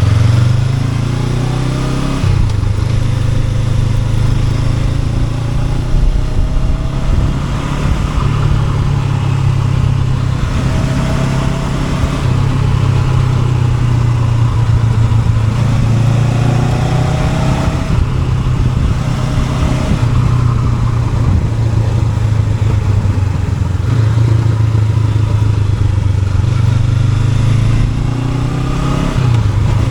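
Honda NX500's parallel-twin engine running steadily under way. Its pitch rises several times as it is revved up through the gears.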